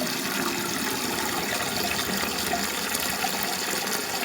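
Toilet tank refilling through a newly installed fill valve: a steady rush and hiss of water running in. The new valve is working.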